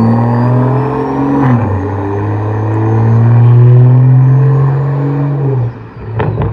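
BMW M340i's turbocharged inline-six accelerating away, with a thin high turbo whistle rising and falling above the engine note. The engine pitch drops at a gear change about a second and a half in, then the sound swells and falls away near the end.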